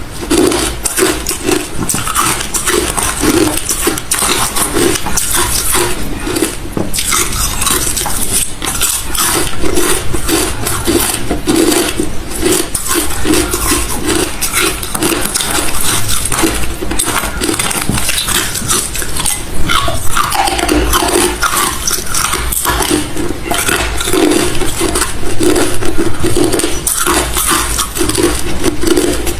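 Close-miked chewing of hard refrozen crushed ice: loud, crackly crunching, with bites coming in a steady rhythm of about two a second.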